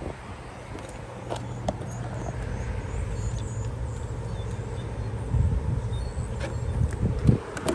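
The Chevrolet SSR's power retractable hardtop mechanism running: a steady low motor hum with a few sharp clicks, then a couple of thumps near the end.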